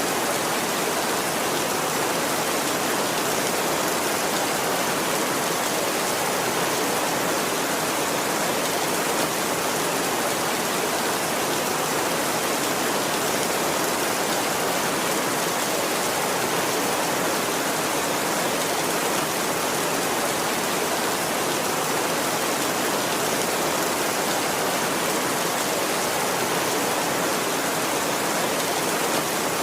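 Heavy rain falling steadily: a dense, even hiss with no breaks or claps of thunder.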